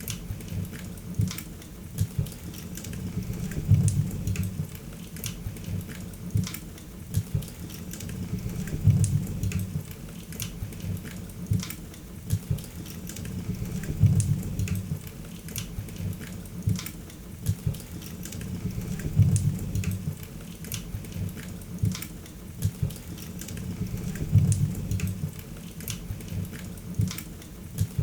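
Wood fire crackling, with scattered sharp pops over a low rumble of flames. The same pattern of louder pops comes back about every five seconds, like a short recording looped.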